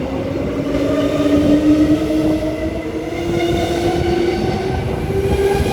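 Transperth A-series electric multiple unit accelerating away, its traction motors giving a whine that rises steadily in pitch over a rolling rumble of wheels on rail.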